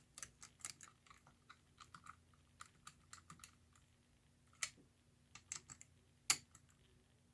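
Irregular light clicks and ticks of small metal parts being handled while the side rods are fitted back onto a Lionel 1666E model steam locomotive, with a sharper click a little past six seconds.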